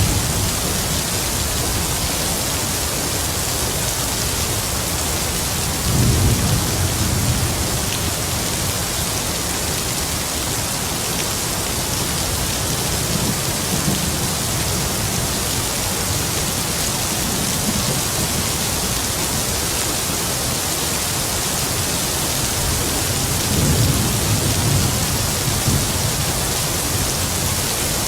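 Heavy rain falling steadily, with distant thunder rumbling low three times: about six seconds in, around the middle, and again near the end.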